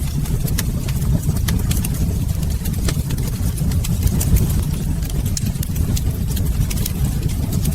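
Fireplace fire crackling: frequent sharp snaps and pops scattered irregularly over a steady low rumble.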